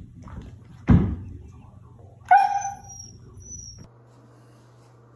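A single thump, then about a second and a half later a short, high-pitched dog whine held on one note.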